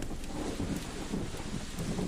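Domestic cat purring close up, a fast, low, pulsing rumble, with faint crackles from a wood fire.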